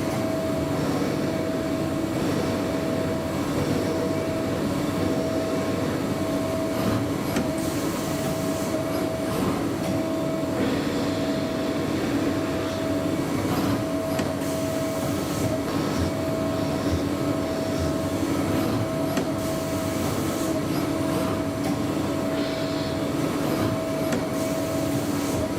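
Makino L2 vertical machining center milling gray cast iron: a steady machine hum with a constant high tone over a gritty cutting noise.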